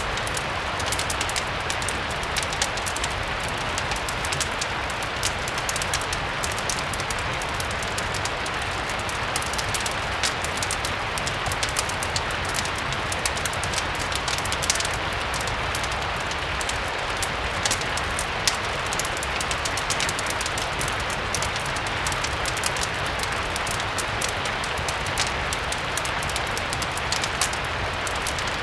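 Steady rain mixed with a crackling fireplace: an even rain hiss with many small, sharp crackles and ticks scattered through it, over a low rumble.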